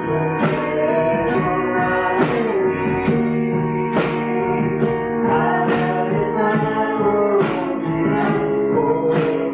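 Live song performance: acoustic guitar strummed in a steady rhythm, with sustained sung or held melody notes over it.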